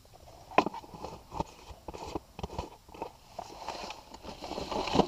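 Items being packed by hand into a geocache box: a string of sharp knocks and clicks as objects go in, the loudest about half a second in and another near the end, with crinkly rustling of packaging over the last second or so.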